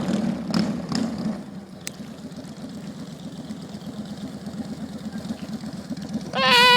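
Honda Shadow 750 V-twin motorcycle engine idling with a low exhaust rumble, with a few sharp throttle blips in the first second or so before it settles to a steady idle.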